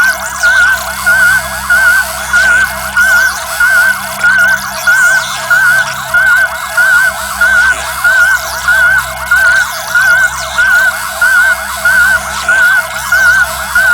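A harsh, loud, siren-like electronic warble, many overlapping chirping tones that pulse evenly about one and a half times a second, played as a deliberately annoying sound.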